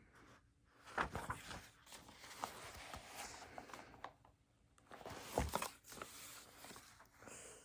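Desk handling sounds: rustling with a few sharp knocks and clicks of objects being moved or set down, the loudest about a second in and again about five and a half seconds in.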